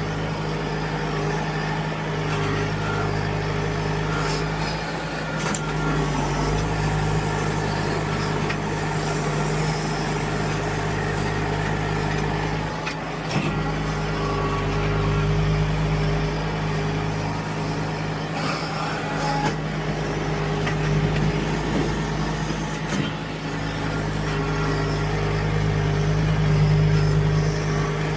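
John Deere tractor engine running steadily, with small swells in level.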